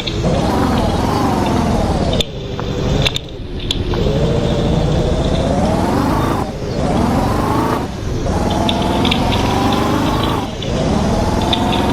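A motor vehicle engine accelerating hard through the gears. The pitch climbs steadily, then drops sharply at each shift, about four times.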